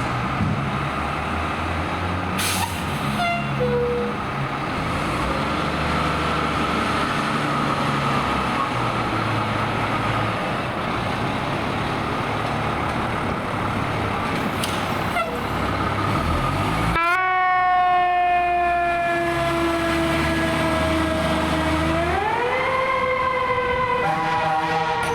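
Fire engine responding with its siren sounding over the rumble of the truck's engine. About two-thirds of the way through, the sound changes abruptly to a strong siren wail that slowly sinks in pitch, then winds back up and holds high near the end.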